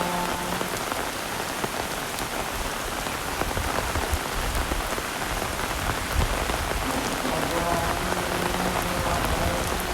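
Heavy rain falling steadily: a dense hiss with many individual drops ticking close by.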